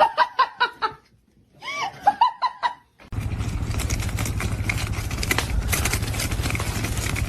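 A person laughing in short, quick bursts, twice with a brief pause between. About three seconds in, a steady, rough, low rumbling sound starts abruptly and continues.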